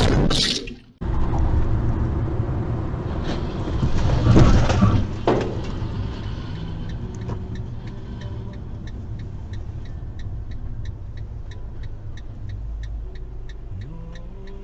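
Music cuts off about a second in, giving way to the steady low rumble of a car heard from inside. A louder sudden crash-like noise comes about four to five seconds in, and from about halfway through a regular ticking, about two a second, runs over the rumble.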